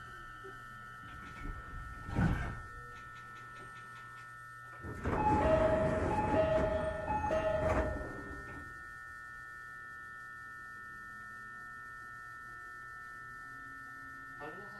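Inside a standing 209-series electric train car, a steady electrical whine with a short thump about two seconds in. From about five seconds, the door chime sounds three two-note dings over the noise of the sliding doors running, lasting about three seconds; this fits the doors being closed for the stop.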